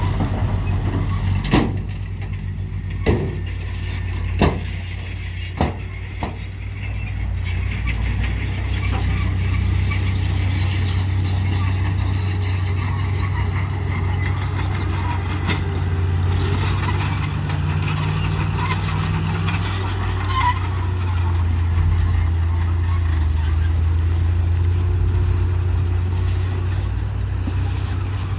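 Heavy diesel earthmoving machinery running steadily, with a string of sharp knocks in the first several seconds and some faint high squealing.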